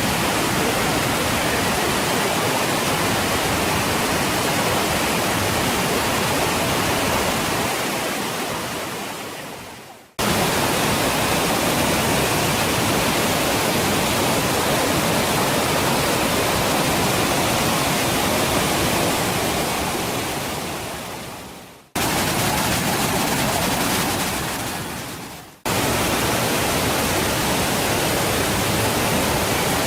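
Steady rushing of a multi-tiered waterfall, a loud even wash of water noise. It fades away and cuts back in abruptly three times, about 10, 22 and 25 seconds in.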